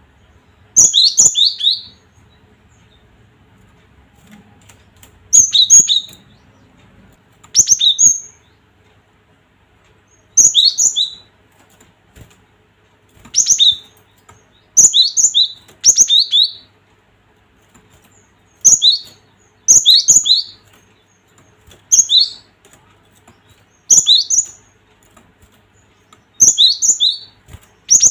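Cinereous tit (gelatik batu) calling in short, high phrases of two or three quick sharp notes, repeated every few seconds.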